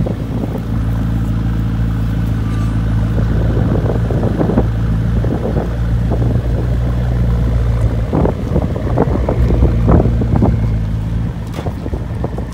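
McLaren MP4-12C's twin-turbo V8 idling steadily at a low, even pitch, the car rolling forward at idle in the second half.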